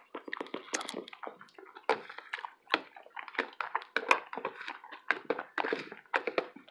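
Close-miked chewing and wet mouth smacks of someone eating, a run of short irregular clicks and squelches.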